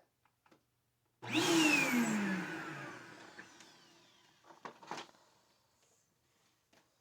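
Vacuum cleaner motor bursting on about a second in and then winding down over a couple of seconds, its whine falling in pitch as it fades. A few knocks follow near the middle.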